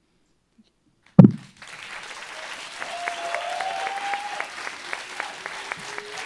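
A second of silence, then a sharp thump, and audience applause breaks out and swells.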